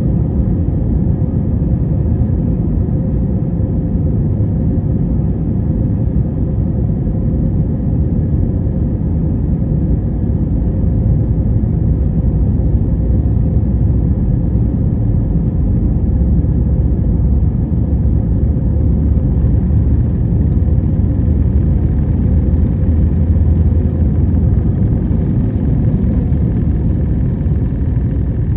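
Airbus A320 jet engines and airframe rumble heard from inside the passenger cabin, a steady deep roar with a faint steady hum above it, growing a little heavier in the low end during the last third.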